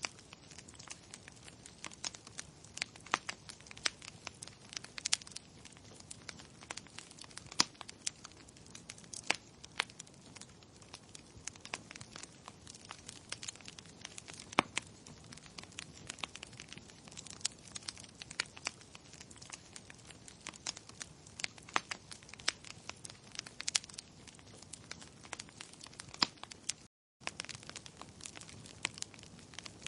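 Fire in a fireplace crackling, with irregular sharp pops and snaps over a soft steady hiss. The sound drops out for an instant near the end.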